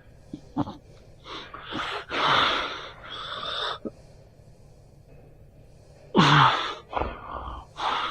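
A person's breathing: breathy gasps and exhalations, a long run of them in the first half and one loud breath about six seconds in.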